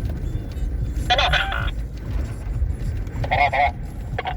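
Vehicle engine running with a steady low rumble, with two short voice-like calls about a second in and again near the end.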